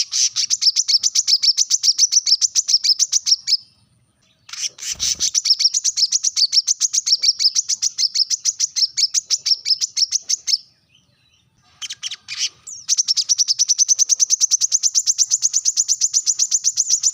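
Brown-throated sunbird (kolibri kelapa) giving a sharp, high call: long trills of rapid repeated notes, about ten a second, broken twice by short pauses.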